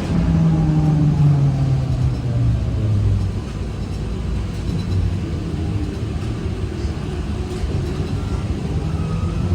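ZiU-682G trolleybus traction motor whining, its pitch falling over the first three seconds as the trolleybus slows, over a steady rumble of running noise. Near the end the whine begins to rise again as it picks up speed.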